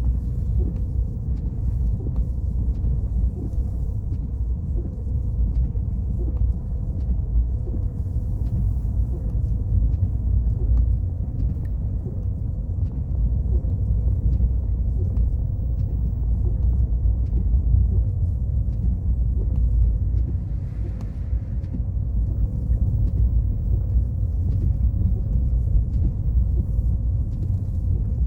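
Car on the move: steady low rumble of tyre and engine noise, with a faint steady hum running through it.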